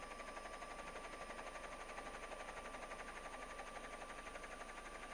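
Faint steady hiss with a thin steady tone and a low hum: the background noise of a police radio recording between transmissions.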